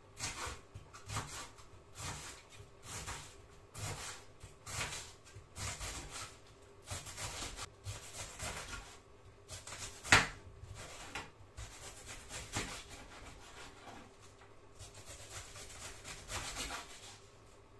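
Knife slicing through a cabbage on a chopping board: repeated rasping, sawing strokes, about one or two a second, with one sharper knock of the blade on the board about ten seconds in.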